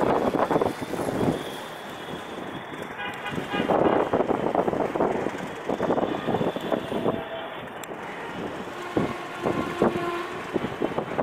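Passenger train rolling slowly into the station, its wheels clattering unevenly over rail joints and points.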